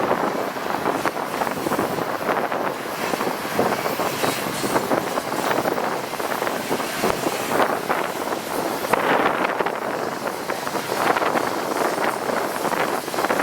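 Long intermodal freight train's cars rolling past: a steady rush of steel wheels on rail, dense with small rattles and knocks, with wind buffeting the microphone.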